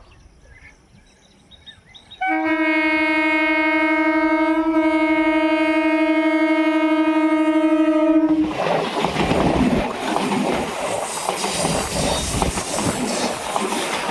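Indian Railways train horn sounding one long steady blast of about six seconds, starting about two seconds in. The train then passes close, its wheels rattling over the rails.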